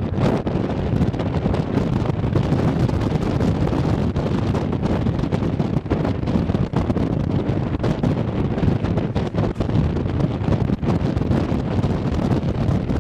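Wind buffeting the camera microphone: a continuous, gusting rumble with no clear engine note.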